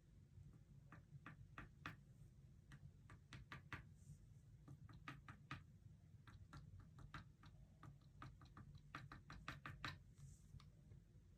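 Faint, irregular light taps of a paintbrush dabbing dots of paint onto a canvas, dozens of them in quick clusters over a low steady room hum.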